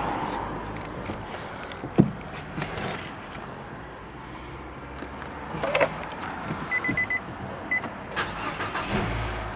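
Keys jangling and handling clicks inside the 2014 Nissan Juke, a short warning chime beeping a few times around seven seconds in, then the engine starting near the end and settling into a low rumble.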